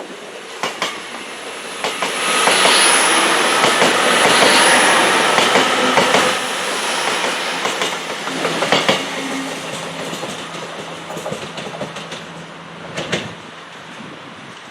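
Train passing close by, its wheels clicking over rail joints with a thin high squeal. The rush of the train builds about two seconds in, is loudest for a few seconds, then fades away.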